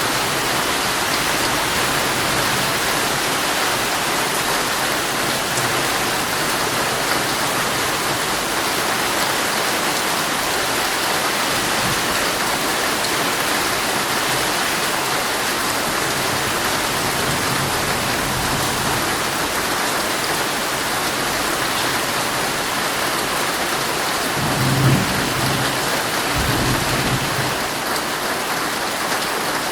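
Heavy rain falling steadily on a tent, heard from inside, with a low rumble of thunder rising briefly about twenty-five seconds in.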